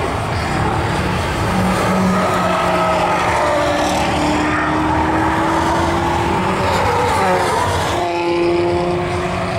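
Sports car engines running hard as cars accelerate through a bend on a race track, their pitch slowly rising. The sound changes abruptly about eight seconds in.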